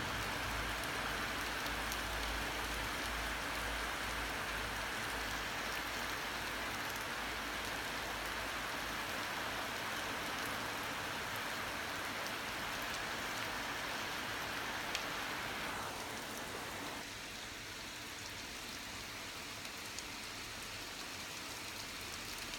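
Heavy thunderstorm rain falling steadily, with a low rumble under it for the first several seconds. The rain gets quieter about three-quarters of the way through.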